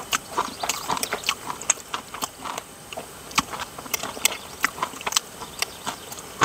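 Chewing crispy deep-fried sea bass cutlet: a rapid, irregular run of crisp crunches.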